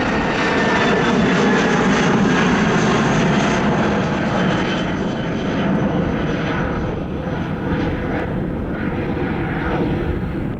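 Jet airliner's engines running loud close by, a dense rumble with a thin whine through it, slowly fading over the second half as the plane moves away.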